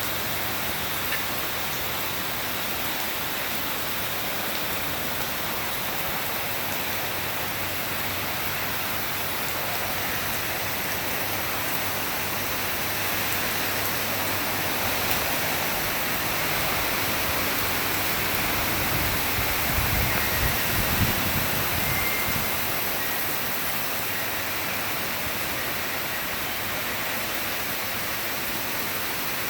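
Very heavy rain pouring down in a steady hiss, with running water. A low rumble swells briefly about two-thirds of the way through.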